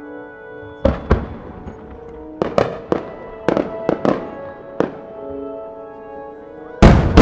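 Aerial firework shells bursting: a string of about nine sharp bangs between one and five seconds in, then a much louder boom near the end that trails off in a long rumbling echo. Music with held notes plays underneath.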